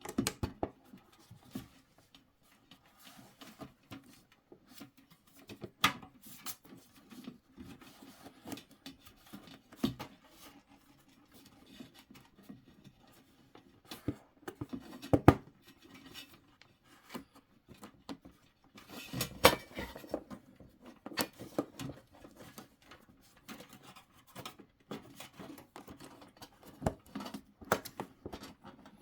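Scattered clicks, taps and rubbing of the heater's covers and parts being handled and fitted back together during reassembly, with a denser rattle about two-thirds of the way through.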